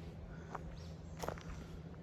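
Soft footsteps on the ground outdoors, with a couple of faint steps.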